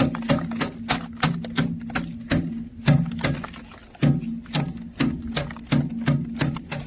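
Ripe sorghum heads being beaten to thresh out the grain: a run of sharp strikes, about three a second, over a faint steady low hum.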